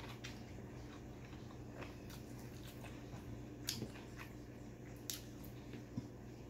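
Close-up chewing and biting of fried pork, with a few sharp mouth clicks over a faint steady low hum.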